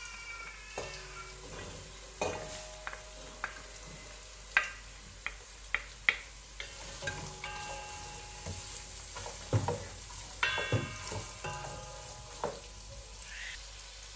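Diced carrots and gizzards frying in oil in a stainless steel pot, with a steady sizzle, while a wooden spoon stirs them and knocks sharply against the pot many times. Some knocks leave the pot ringing briefly.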